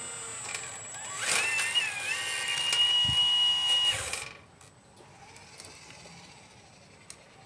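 Small electric motor of a 1/12-scale radio-controlled Liebherr 954 excavator model, whining as it runs. The pitch rises about a second in, holds a steady high whine with a low knock partway through, and cuts off a little after four seconds in.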